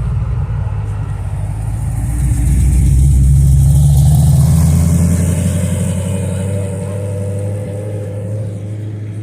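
A car engine running with a low, steady note. It gets louder from about two seconds in and eases off again through the second half.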